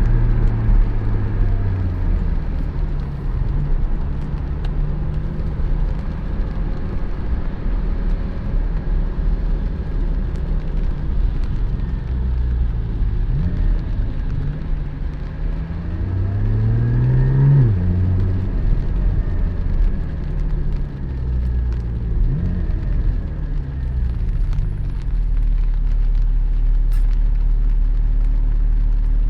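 Porsche 718 Spyder's 4.0-litre flat-six running on the move, its revs rising and falling several times; the biggest climb peaks about 17 seconds in and then drops off sharply, over a steady low road rumble.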